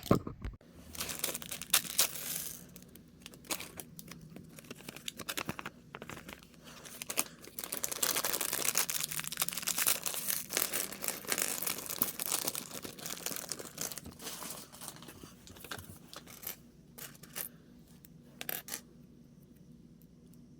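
Plastic packaging of a small model kit being torn open and crinkled, in rustling bursts with a longer stretch in the middle and scattered small clicks.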